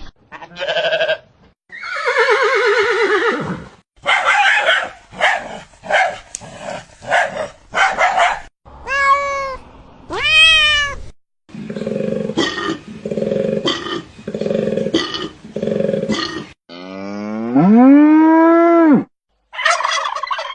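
A girl imitating animal calls with her voice, one after another: a long falling call about two seconds in, runs of short repeated calls, two rising-and-falling whoops near the middle, a set of even pulsed calls, and a long rising call near the end.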